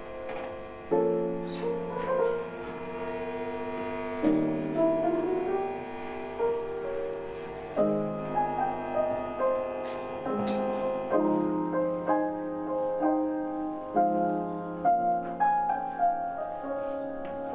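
Slow instrumental song intro from a live band: held chords changing every second or few, with a melody line over them and no singing.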